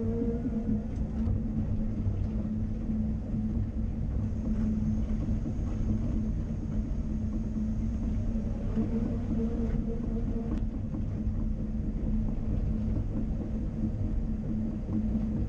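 Caterpillar 330 Next Generation excavator's diesel engine running steadily at working revs, with a few faint knocks.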